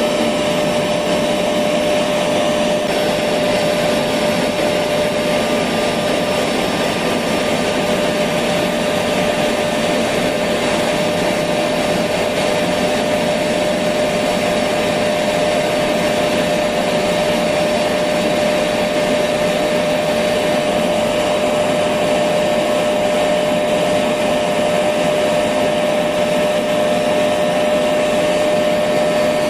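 Electric vacuum cleaner running continuously: a steady rushing air noise with a constant motor hum, unchanging in level.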